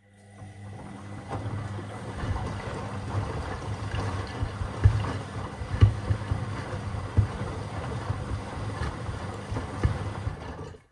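Washing machine running with sneakers in the drum: a steady low motor hum that builds up over the first second or so, with irregular thuds of the shoes knocking against the drum. The loudest thuds come about five and six seconds in.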